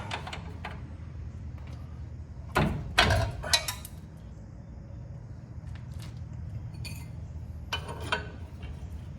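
Metal clinking and clattering of tools and suspension parts being handled, with a cluster of sharp clinks about three seconds in and a few more near the end, over a steady low hum.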